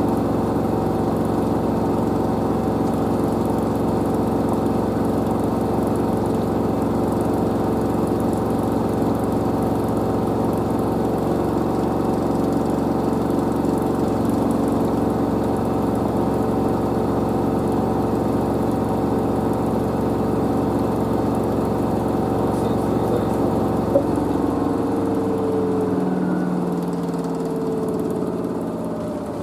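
LG DirectDrive washer dryer's drum spinning at high speed with a steady, multi-tone motor whine. About 24 seconds in there is a click, and the whine falls in pitch as the drum winds down at the end of the spin.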